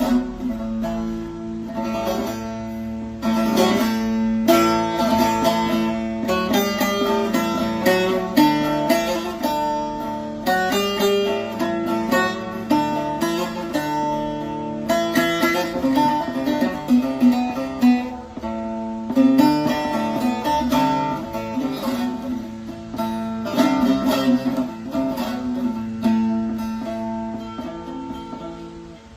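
Short-neck bağlama (saz) with an elm bowl and spruce top being played: a fast plucked melody over a steady open-string drone, dying away near the end.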